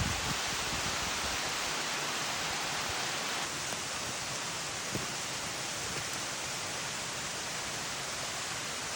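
Steady rushing of falling water, with a faint click about five seconds in.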